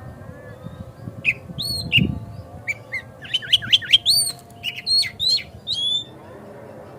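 Oriental magpie-robin (kacer) singing: a rapid run of loud, clear whistled notes and sharp chirps, some rising and some falling, starting about a second in and stopping about a second before the end.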